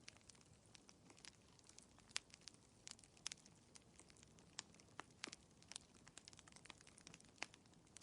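Wood fire crackling: faint, irregular snaps and pops, several a second, with a few louder pops.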